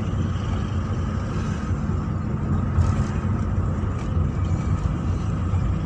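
A car being driven, its engine and road noise making a steady low rumble.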